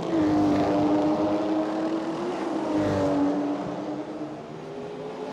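Racing car engines running at high revs. A strong engine note holds steady, then dips slightly. A second, higher engine note joins about halfway through, and the sound eases off near the end.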